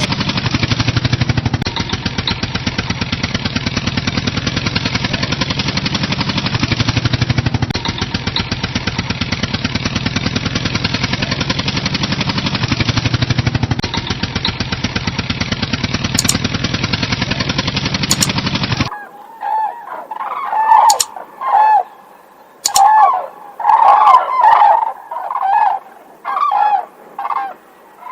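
A tractor engine sound effect runs steadily with a fast chug for about nineteen seconds, then cuts off suddenly. A run of short fowl calls follows, honking and rising and falling in pitch.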